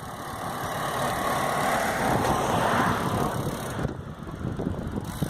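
A motor vehicle passing on the road, its rushing noise swelling over about three seconds and breaking off sharply about four seconds in, with wind rumbling on the microphone.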